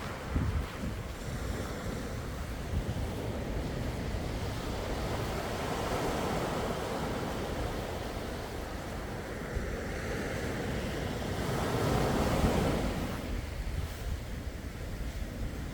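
Sea waves washing ashore, one swell building to its loudest about twelve seconds in and then easing off, with a low wind rumble on the microphone.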